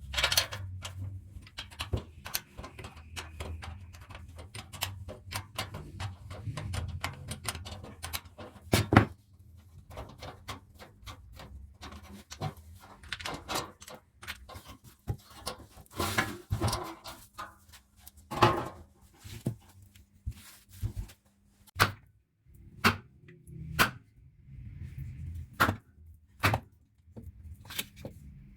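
Irregular clicks, taps and knocks of hand tools and small parts being handled, with a sharper knock about nine seconds in, over a faint low hum.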